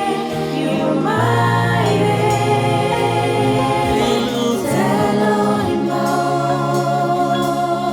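Gospel worship music: choir voices singing long held notes that slide in pitch, over a steady low bass.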